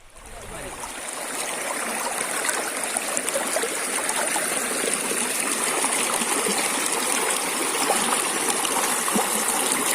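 Stream water rushing and splashing down a waterfall, a steady even rush that fades in over about the first second.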